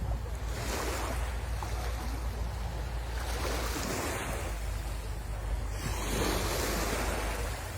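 Sea waves breaking and washing up the shore, the surf swelling three times, over a steady low rumble.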